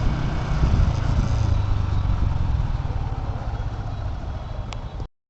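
Motorcycle engine running with a steady low rumble, stopping abruptly near the end.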